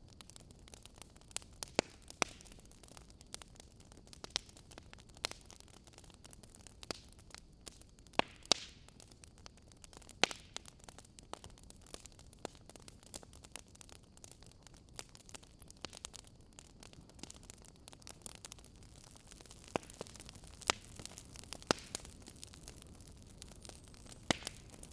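Wood fire crackling: irregular sharp pops and snaps over a steady low hiss, with a few louder pops about a third of the way in.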